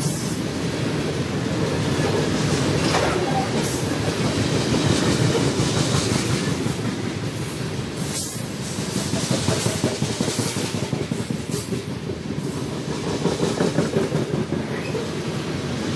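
BNSF freight train rolling past, its steel wheels rumbling and clicking steadily over the track.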